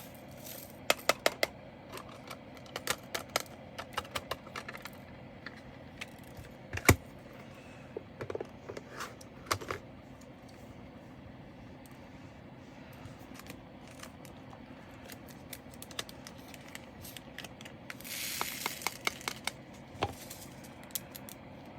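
Scattered small clicks and taps of handling diamond painting supplies, loose resin drills and plastic bags or containers, with a short burst of rustling and rapid rattling near the end.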